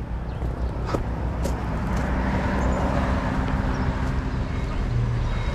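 A motor vehicle's engine running nearby with a steady low hum, its noise swelling as it passes about two to three seconds in, with a couple of faint clicks about a second in.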